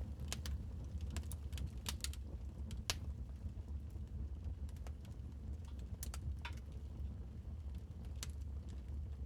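Wood fire crackling in a fireplace: irregular sharp pops and snaps over a steady low rumble of the burning fire, one louder snap about three seconds in.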